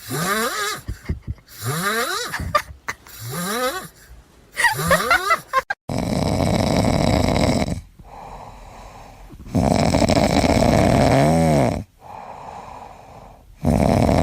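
A pet snoring loudly in long, rasping breaths, each about two seconds. Before the snoring begins, there are a few short squeaky sounds that rise in pitch.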